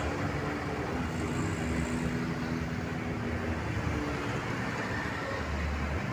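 Road traffic: engines of passing vehicles running steadily, with a low engine rumble and a faint hum.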